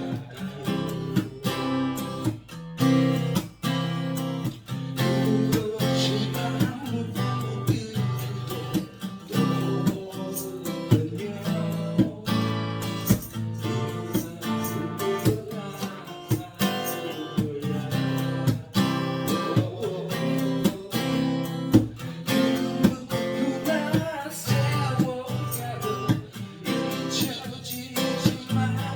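Acoustic guitar playing a song, mixing picked notes and strummed chords in a steady rhythm.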